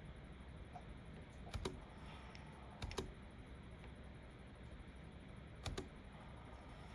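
Computer keyboard keys clicking in three short, separate taps, each a quick double click, over a faint steady room hiss.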